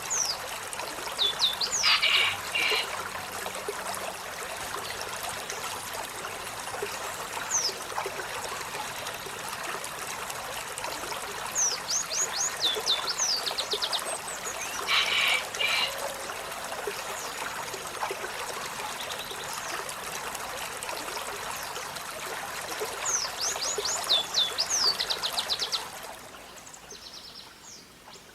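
Olive-backed sunbird calling: three bouts of quick, high, downward-sweeping notes in rapid series, with a couple of louder, harsher bursts among them. Under the calls runs a steady trickle of flowing water, which drops away about 26 seconds in.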